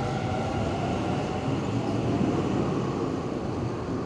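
Hanshin Railway electric train running through the station without stopping: a heavy rumble of wheels and running gear with a few steady tones over it, swelling to its loudest about halfway through.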